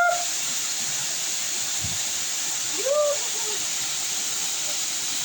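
Waterfall rushing steadily. Two short calls that rise and fall in pitch cut through it, one at the start and one about three seconds in.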